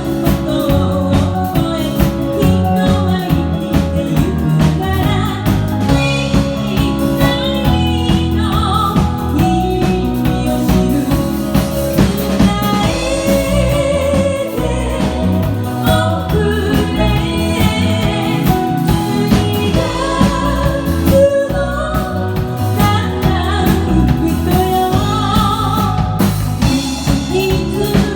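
A female singer with a band of keyboard, drum kit and bass guitar, performing a Japanese pop song.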